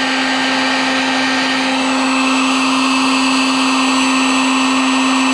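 Harbor Freight electric heat gun running steadily, its fan motor giving a constant hum under a rushing blast of hot air, as it melts plastic for a weld patch.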